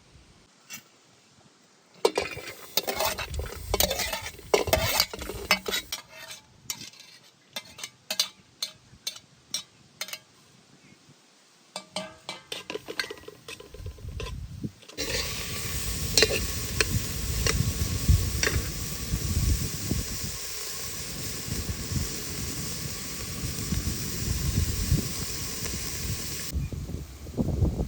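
A utensil clicking and scraping in a cooking pot, then, from about halfway, a steady sizzle of food frying with more scrapes of stirring over it. The sizzle stops abruptly a little before the end.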